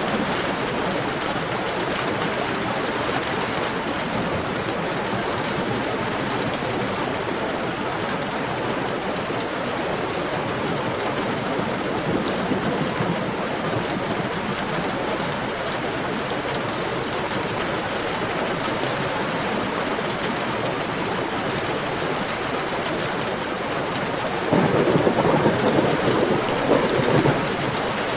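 Heavy rain falling steadily, with a louder rumble, likely thunder, for about three seconds near the end.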